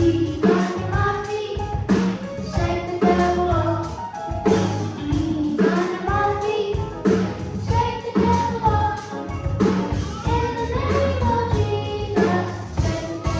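Children's gospel choir singing in unison with a band backing it: drum kit hitting a steady beat under a low bass line.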